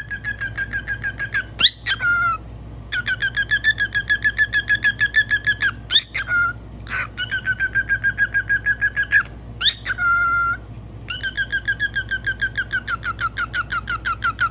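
A bird calling in fast runs of repeated whistled notes, about seven a second. Each run ends in a quick upward swoop and a short lower note, and the pattern repeats four times.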